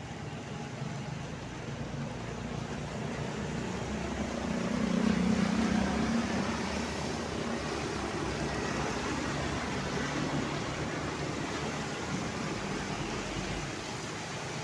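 Road traffic with a heavy vehicle passing; its engine drone swells to its loudest about five seconds in, then settles.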